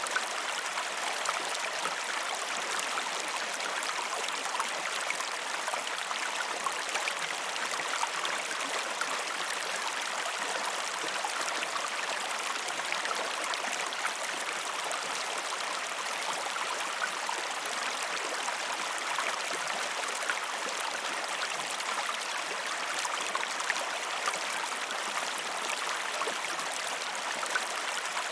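Flowing river water rushing steadily, with fine irregular splashing detail and almost no deep rumble.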